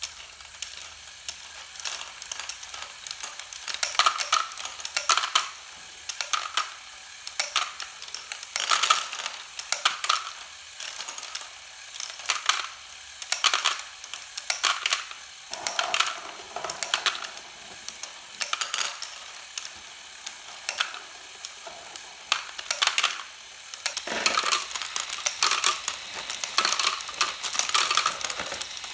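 Lego Great Ball Contraption conveyor module running: plastic Technic engine-block conveyor links and small balls clicking and rattling as the balls are lifted, in a steady stream of clusters of sharp clicks.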